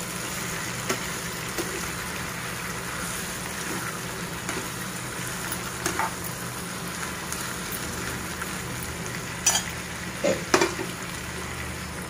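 Chicken pieces and onions sizzling steadily in a nonstick frying pan, stirred with a metal spatula that scrapes and clicks against the pan now and then, with a few louder knocks near the end.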